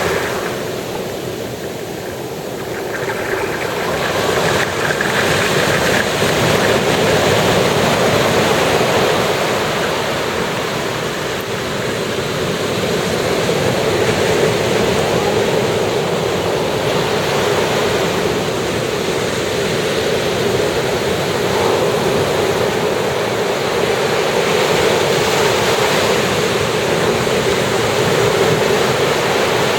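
Ocean surf washing in continuously, waves breaking in an unbroken rush that swells and eases every few seconds.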